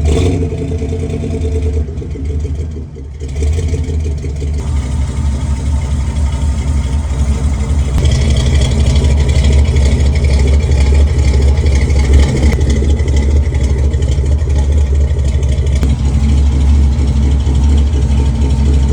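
Carbureted International truck engine idling just after a cold start, a steady low run that gets a little louder about eight seconds in.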